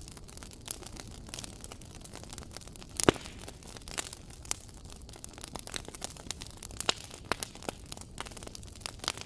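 Fireplace fire crackling: irregular sharp pops and snaps over a soft steady hiss, with the loudest pop about three seconds in.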